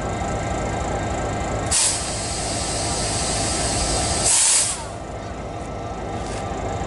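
Diesel locomotive running with a steady low rumble, while compressed air hisses from the train's air brakes for about three seconds, starting about two seconds in with a sharp burst and ending with a louder burst before cutting off.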